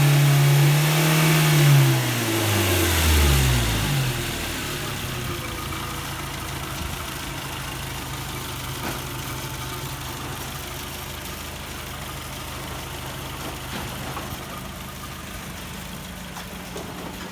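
A 2000 Tracker engine revs high and falls back to idle over the first four seconds, then idles steadily. The engine has a lifter tick.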